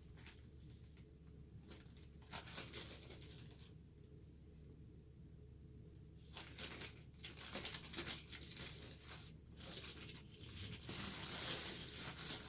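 Seashells clicking and clinking against each other and against a hard surface as they are handled and set down. The clicks are irregular and scattered at first, then come thicker and louder in the second half.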